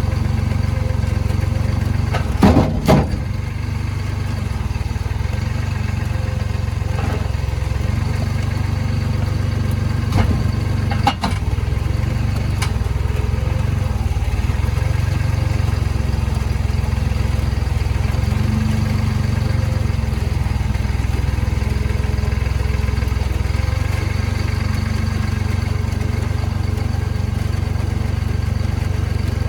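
An engine running steadily at a constant speed, with a couple of short clattering knocks about two and a half seconds in and again about eleven seconds in.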